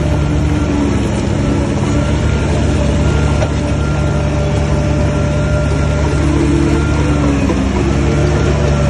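Heavy diesel engine of earthmoving equipment running steadily under load, its pitch shifting slightly about six seconds in.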